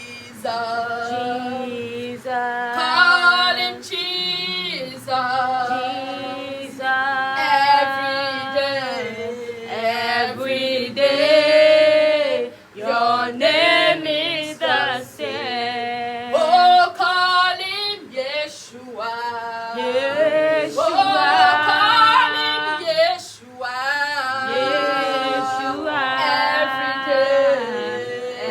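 Voices singing a worship song, led by female voices.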